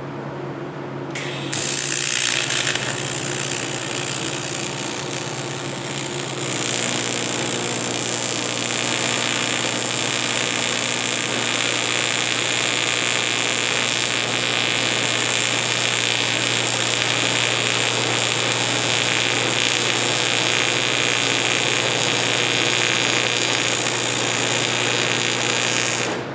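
Electric arc welding on steel: a long, steady frying hiss from the arc that grows louder about six seconds in, over a low steady hum.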